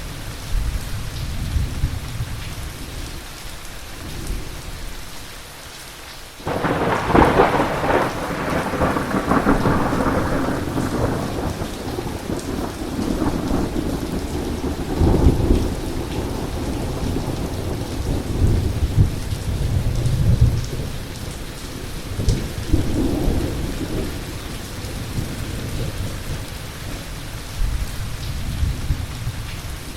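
Heavy rain falling steadily through rolling thunder. About six seconds in, a sudden loud thunderclap breaks and rumbles on for several seconds, and further rolls of thunder follow later.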